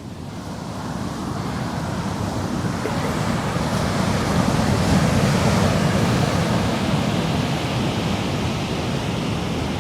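Ocean surf washing in at the water's edge: a steady rush of breaking waves that fades in over the first couple of seconds and swells to its loudest around the middle.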